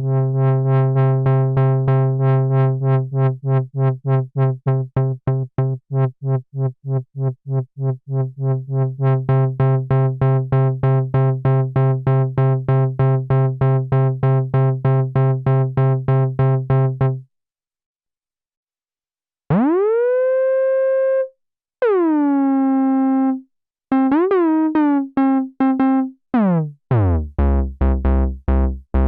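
Behringer Crave analog monosynth playing one note rapidly pulsed at a steady low pitch, about four or more hits a second, for some seventeen seconds, then stopping. After a short gap come a few sustained notes that glide up in pitch, then near the end a tone that sweeps down in pitch while pulsing quickly.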